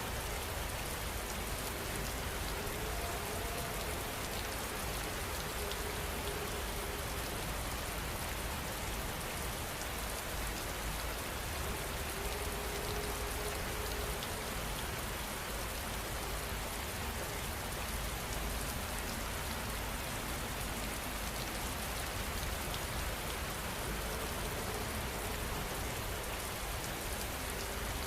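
Heavy rain falling steadily, an even dense hiss of drops that does not let up.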